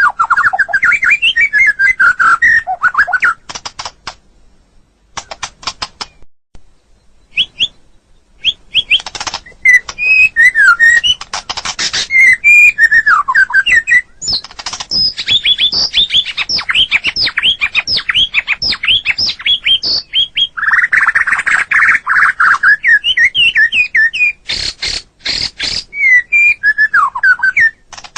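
White-rumped shama (murai batu) singing: a fast, varied run of clear whistled phrases mixed with rapid chattering notes. There is a brief lull of scattered notes early on, then dense song from about nine seconds in.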